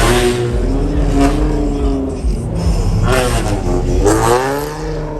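Car engine revving, its pitch climbing and falling a couple of times over a deep low rumble.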